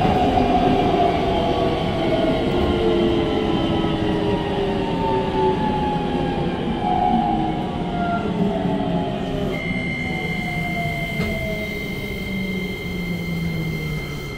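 Keikyu 1500 series train heard from inside the car: its Toyo IGBT VVVF inverter and traction motors whine, the pitch falling steadily as the train slows under electric braking, over rumbling wheel and rail noise. About ten seconds in, a steady high inverter tone sets in.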